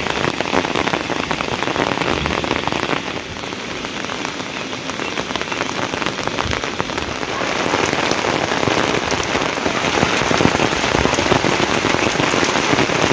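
Heavy rain falling steadily, a dense hiss of drops. It eases slightly about three seconds in and grows heavier again past the middle.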